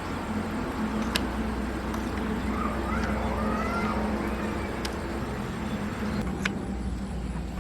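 A steady low mechanical hum, with three sharp clicks spread through it.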